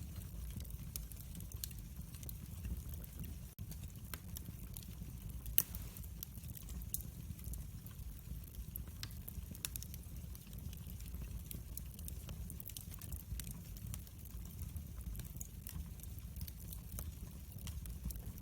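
Wood fire in a fireplace crackling, with a steady low rumble under many small irregular crackles. One louder pop comes about a third of the way in.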